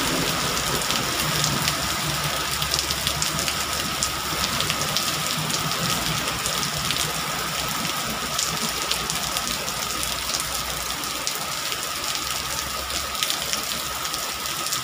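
Heavy downpour of rain pelting a road and pavement: a dense, steady hiss full of fine drop patter. Under it runs a low rumble of passing traffic, which fades out about eleven seconds in.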